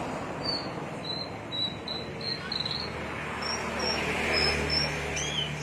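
Songbird giving a rapid series of short, high chirps, about three a second, that step up in pitch partway through. A low steady hum rises underneath in the second half.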